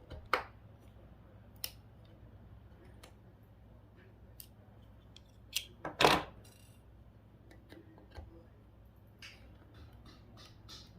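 Scattered clicks and clatters of small plastic and metal parts as an electronic device is taken apart by hand with tools. The loudest knock comes about six seconds in.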